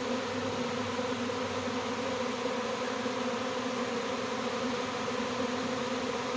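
Steady buzzing hum of a large honey bee swarm at a hive, many bees fanning their wings at the entrance.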